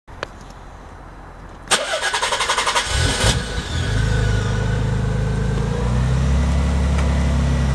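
1991 Nissan 300ZX Twin Turbo's 3.0-litre twin-turbo V6 being started: a click, the starter cranking rapidly for about a second and a half, then the engine catching and settling into a steady idle with an aftermarket exhaust.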